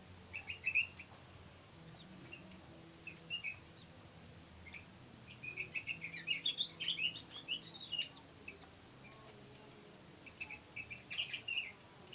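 Sooty-headed bulbuls (kutilan) chirping back and forth in quick bursts of short notes, a young bird dueting with another. The chirping is densest in the middle of the stretch and picks up again near the end.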